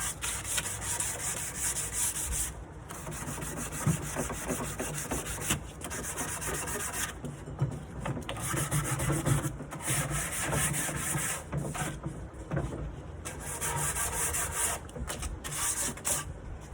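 Sandpaper rubbing on a wooden nightstand by hand, in repeated strokes with short pauses between them.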